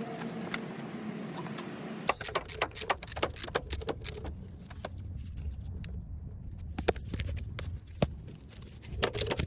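Metal items being handled: a dense run of sharp clicks and clinks about two seconds in, thinning to scattered clicks over a low rumble.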